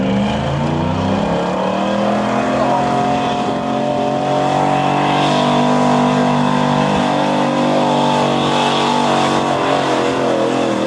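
Pulling truck's engine at high revs under heavy load as it drags the weight-transfer sled down the track. The pitch climbs over the first couple of seconds, then holds steady near full throttle.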